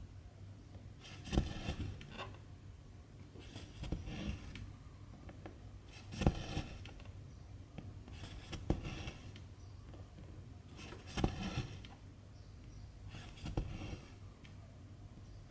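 Silk thread drawn through cross-stitch fabric by hand, six times about two and a half seconds apart. Each stitch is a light tick of the needle through the fabric, then a short rasping pull of the thread.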